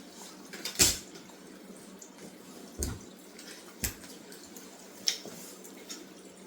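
A garment being handled: soft rustling with four short sharp clicks or knocks, the loudest about a second in.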